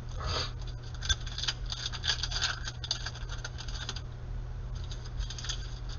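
Basketball trading cards being flipped through by hand: a run of quick, crisp clicks and slides that eases off about four seconds in and picks up again briefly near the end.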